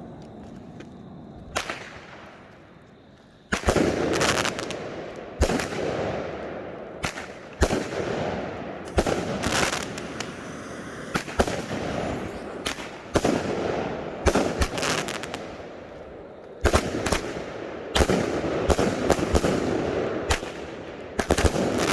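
Consumer firework cake firing: one sharp report about a second and a half in, then from about three and a half seconds a steady run of shots, roughly one a second, each followed by crackling.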